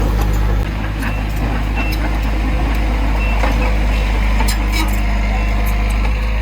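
Heavy diesel earthmoving machinery running steadily at a low, even pitch, with scattered metallic knocks and clanks.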